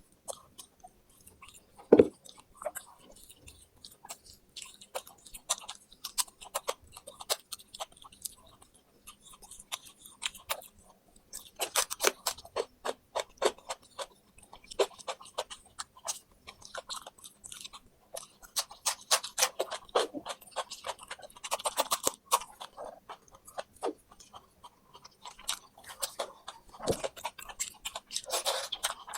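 Close-up chewing and crunching of fried quail, small bones cracking between the teeth in quick irregular bites. A single sharp knock about two seconds in is the loudest sound.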